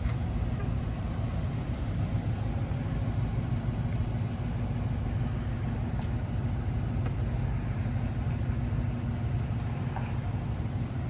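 2018 Ford F-350 XLT pickup's engine idling steadily, an even low rumble.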